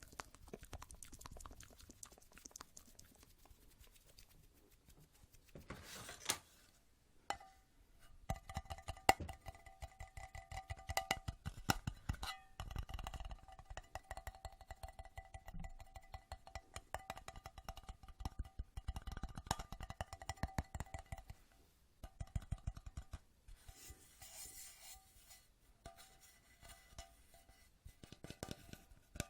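Fast ASMR tapping: rapid, uneven clicks and taps. From about a quarter of the way in until about three quarters through, a steady ringing tone sits under the taps, as from a resonant object being tapped.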